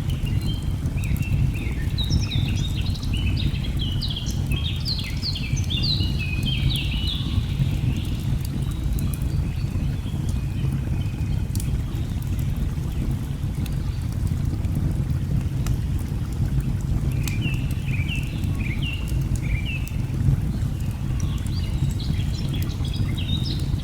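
Steady low rushing of a waterfall with faint crackling of a wood fire, and a bird singing rapid chirping phrases, twice: in the first few seconds and again near the end.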